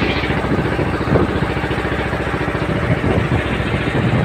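Boat engine running steadily at close range, with a fast, even chugging.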